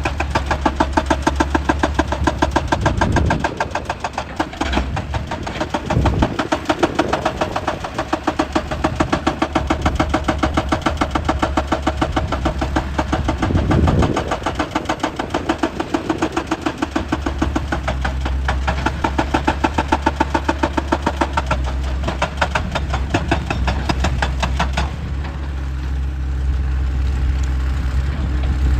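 Excavator-mounted hydraulic rock breaker hammering rock in fast, even blows over the excavator's running diesel engine. The hammering stops near the end, leaving the engine running.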